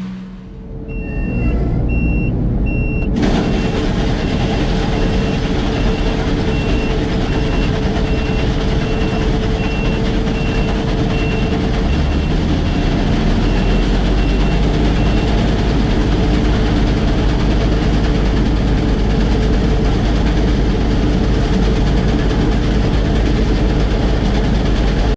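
Combine harvester running at full harvest, a loud steady drone of engine and threshing machinery that jumps up sharply about three seconds in. A repeated electronic warning beep, about two a second, sounds over it and stops about fifteen seconds in.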